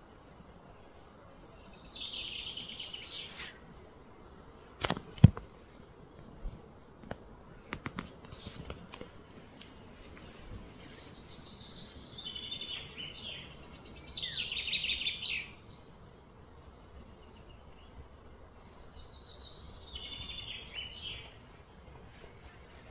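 Songbird singing in three bursts of rapid, chattering high trills that slide downward. About a fifth of the way in there is a single sharp knock, the loudest sound, followed by a few faint clicks.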